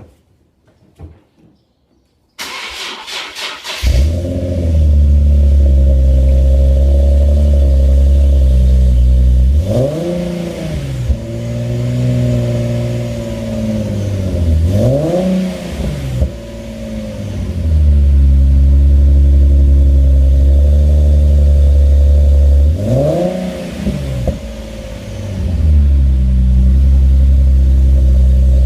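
Nissan 370Z's 3.7-litre V6 cranked over by the starter and catching a few seconds in, then idling steadily through its exhaust. It is revved three times, each a quick rise and fall in pitch, and settles back to idle between them.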